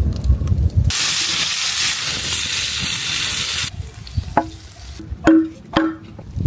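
Chicken drumsticks sizzling over hot embers: a loud, steady hiss that starts about a second in and cuts off abruptly after nearly three seconds. Three short, pitched squeaks follow near the end.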